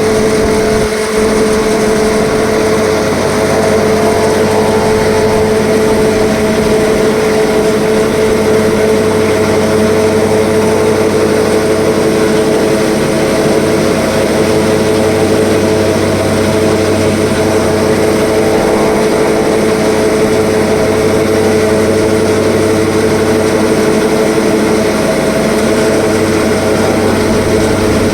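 Tractor-driven silage packing machine running steadily, powered by the tractor's engine. A constant mechanical hum with several steady pitches and no change in speed.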